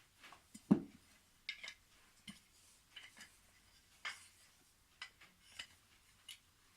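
Wooden toy train track pieces knocking and clacking together as they are fitted one to the next: a string of light, irregular clicks, the loudest about three-quarters of a second in.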